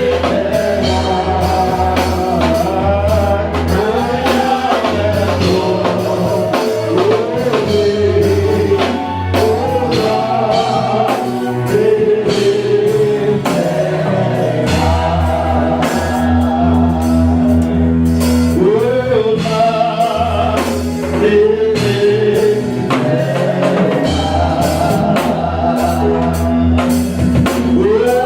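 Gospel praise-and-worship music: singing over a drum kit and a deep, shifting bass line.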